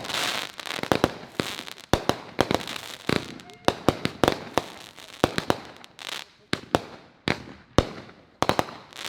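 Consumer fireworks going off: a rapid, irregular string of sharp bangs, two or three a second, some trailed by crackling.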